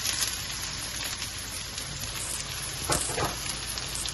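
Chopped onions sizzling and crackling in hot olive oil in a pan on high heat, with a short knock about three seconds in.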